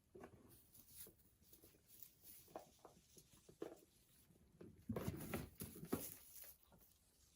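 Faint rustling and scuffing with scattered soft taps, louder for about a second around five seconds in.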